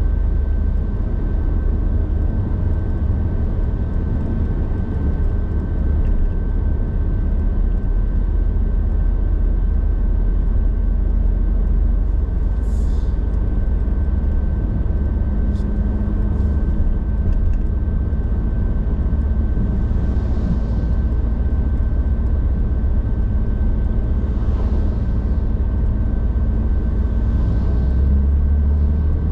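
A car driving at highway speed on a rain-soaked road: a steady low rumble of road and engine noise with a faint steady whine above it. A few brief hissing swells rise and fall over it.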